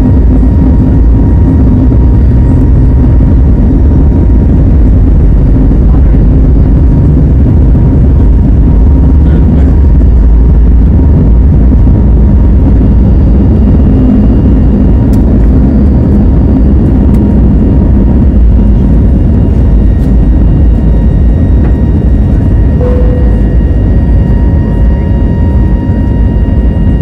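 Airbus A320neo engines at takeoff thrust heard inside the cabin: a loud, steady rumble with a faint steady high whine over it.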